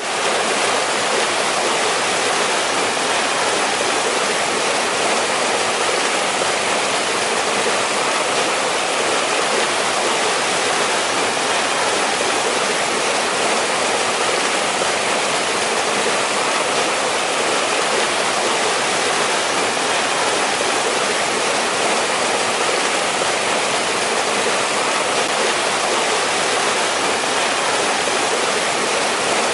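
Mountain valley stream flowing and splashing over rocks, a steady, even rush of water with no pauses.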